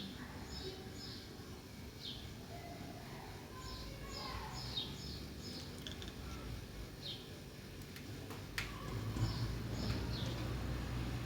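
Sparrows chirping in short, scattered high calls. About two-thirds of the way in there is a sharp click, followed by a low rumble that grows louder.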